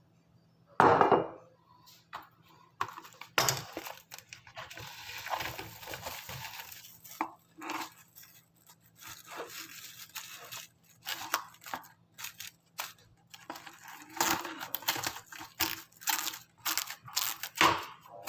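Kitchen handling noises while a fish dish is readied for the microwave: irregular knocks and clinks of a dish, with stretches of rustling, crinkling and tearing. A sharp knock about a second in is the loudest.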